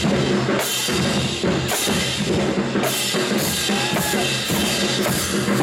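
Marching band playing loudly: pounding drums with a bright crash about once a second over steady held notes. The whole band cuts off sharply at the very end.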